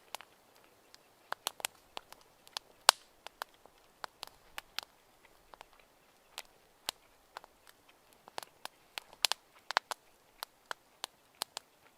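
Wood fire crackling: irregular sharp pops and snaps, a few each second, with one louder pop about three seconds in.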